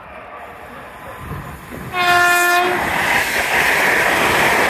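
LNER Azuma high-speed train passing through the station at speed. Its rush rises as it approaches. About two seconds in the driver gives one short single-tone horn blast, and then the loud, steady noise of the train going by follows.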